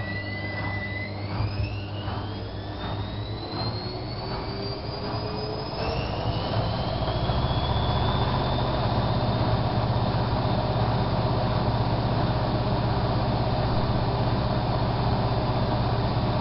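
Bauknecht WAK7751 front-loading washing machine ramping up into its spin: a motor whine climbs in pitch over the first six seconds while the drum's rhythmic thumping quickens and blurs into a steady high-speed spin with a heavy low drone. The owner takes the drone for a drum bearing that is slowly failing.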